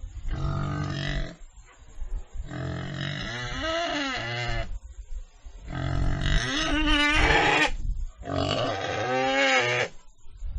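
Pigs grunting and squealing in about four bouts, each a second or two long with short pauses between: low rough grunts under higher, wavering squeals.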